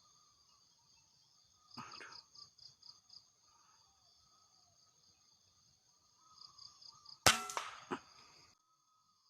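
A single sharp air-rifle shot about seven seconds in, ringing briefly, followed by a smaller click about half a second later. Crickets and insects buzz steadily underneath.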